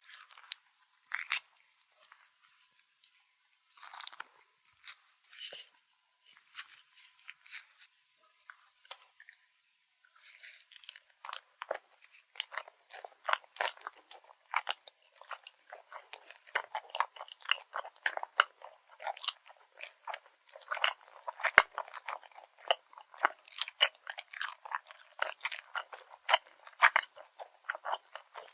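Close-miked eating of grilled rice cake sticks with grain syrup: a few separate bites or sticky clicks in the first ten seconds, then from about ten seconds in continuous chewing with crunching and wet, sticky clicks.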